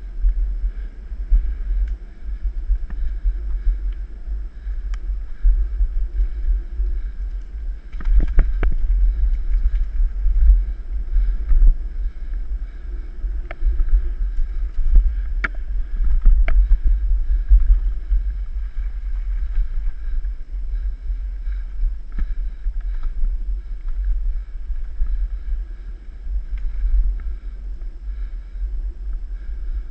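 Mountain bike ride: wind rumbling on the microphone throughout, with the bike knocking and rattling over bumps several times, most around a third and halfway in.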